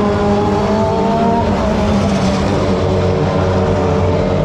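Super GT race cars running at speed on the circuit, several engine notes overlapping in a continuous loud drone, one pitch rising slightly in the first second or so.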